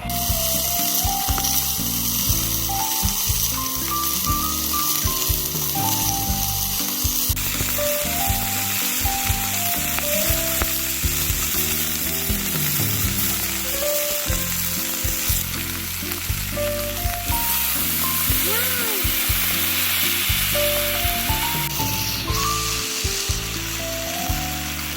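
Food sizzling and frying in a hot pan, a steady crackling hiss, over soft background music.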